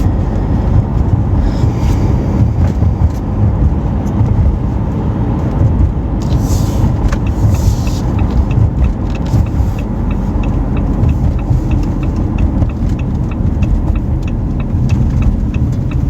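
A car driving, with a steady low road and engine rumble. A regular light ticking, about two a second, starts about nine seconds in.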